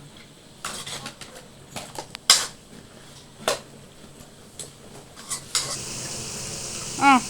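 A metal spoon clanking and scraping against a cooking pot as a chicken curry is stirred, with about six sharp knocks, the loudest a little over two seconds in. About six seconds in, a steady hiss sets in.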